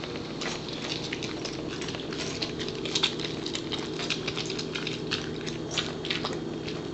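A corgi chewing and licking up a soft treat: a rapid, irregular run of wet smacks and clicks, over a steady low hum.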